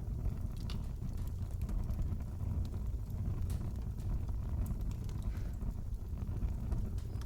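Wood fire in a fireplace crackling: a steady low rumble of burning with scattered, irregular sharp pops and snaps.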